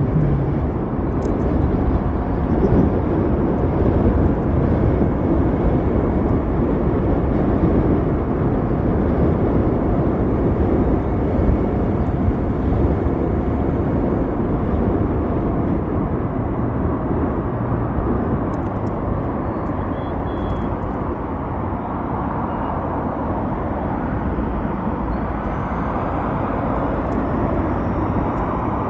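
Steady wind rush and road noise from riding an Ather 450X electric scooter, with no engine note.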